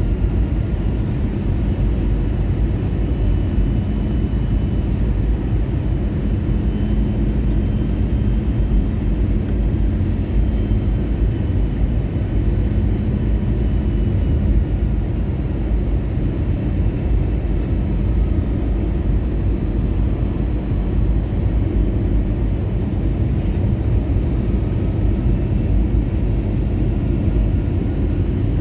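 Airbus A320 cabin noise in flight: a steady low rumble of airflow and engines, with a faint steady hum underneath.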